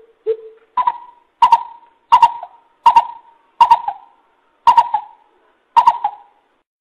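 Coucal (bubut) calling: a series of about eight short hoots, the first lower in pitch than the rest, each starting with a sharp click.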